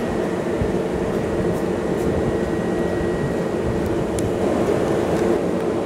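Kintetsu electric train standing at the platform with its doors open, its onboard equipment humming steadily with a faint high whine.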